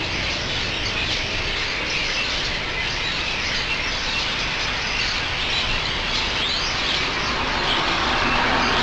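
A large flock of birds calling all at once, a dense, continuous chatter of many overlapping chirps, over a low rumble. Near the end a passing vehicle's engine grows louder beneath the birds.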